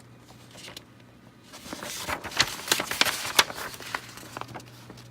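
Paper rustling and crackling as an instruction sheet is handled and its pages turned, a dense run of crisp crackles lasting about two and a half seconds and starting after a quiet first second or so.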